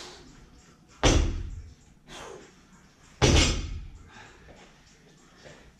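Loaded 165 lb barbell landing on a wooden gym floor at the bottom of deadlift reps: two heavy thuds about two seconds apart, each ringing briefly as it dies away.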